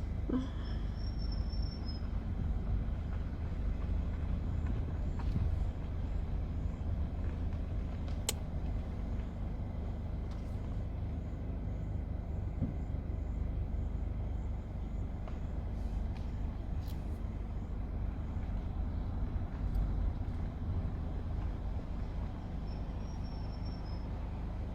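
Car driving along with a steady low rumble of engine and tyre noise, heard from inside the cabin.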